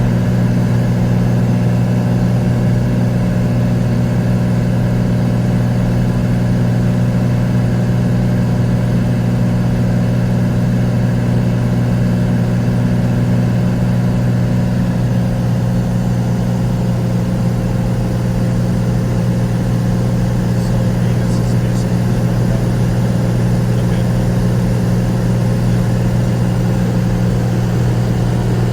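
Cessna Turbo 206's turbocharged six-cylinder piston engine and propeller droning steadily in flight at 13,000 feet, a deep even hum with no change in pitch.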